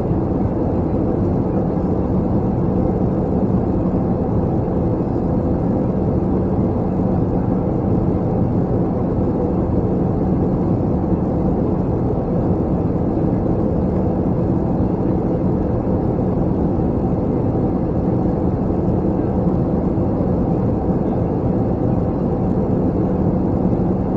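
Steady in-flight cabin noise of an Airbus A321 airliner: engine and airflow noise with a constant low hum.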